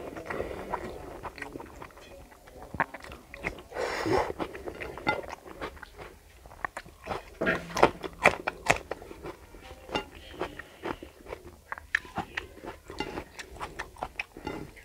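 Chewing and wet mouth smacks of a person eating rice and curry by hand, heard as an irregular run of many sharp clicks.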